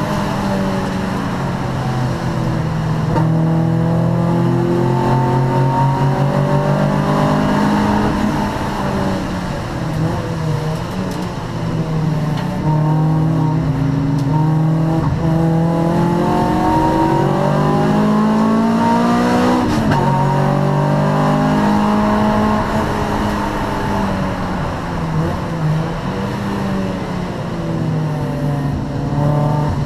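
Honda Prelude 2.2 VTEC racing car's four-cylinder engine under hard racing load, revs climbing and dropping repeatedly through gear changes and braking, with a sharp drop and climb about twenty seconds in.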